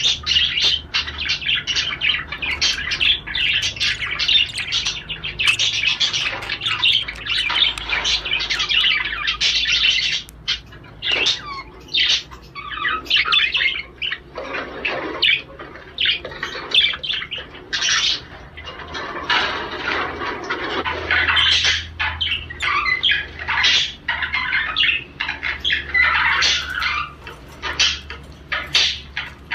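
Male budgerigar's courtship warble: a fast, unbroken chatter of chirps, warbles and squawks with brief pauses, the song used to stimulate budgies to breed.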